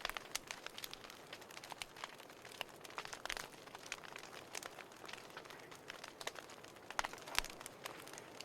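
Wood fire crackling: irregular sharp pops and snaps over a soft, steady hiss, with a few louder pops about three seconds in and near the end.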